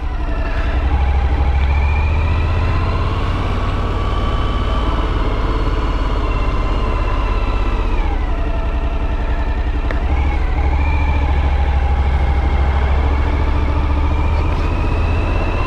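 Motorcycle engine running under way, steady at first, its revs dropping about halfway through and then picking up again, over a heavy low rumble.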